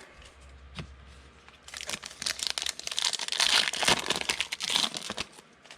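Plastic foil wrapper of a pack of trading cards crinkling as it is torn open and handled, the crackling starting about two seconds in and dying away shortly before the end.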